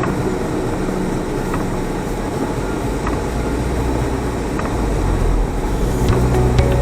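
Car engine running as it drives, a steady noisy rumble that grows stronger near the end, with background music under it.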